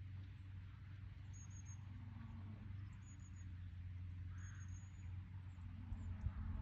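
Faint outdoor background: a steady low hum with a few short, high-pitched bird chirps, and a few low thumps near the end.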